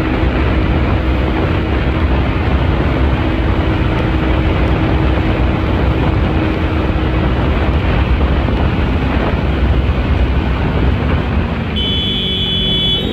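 Motorcycle on the move: a steady engine note under heavy rushing road and wind noise, with the engine note falling away near the end.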